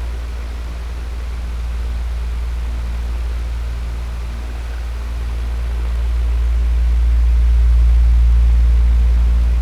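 Electric fan running: a steady low hum under an even airy hiss, slowly swelling louder in the second half.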